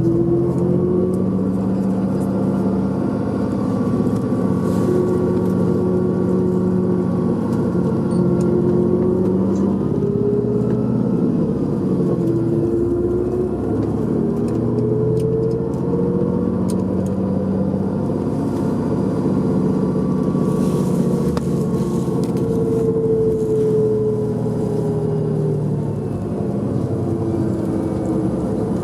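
Engine of a tour vehicle heard from inside the cabin while driving. Its pitch climbs and then drops back several times as it moves through the gears.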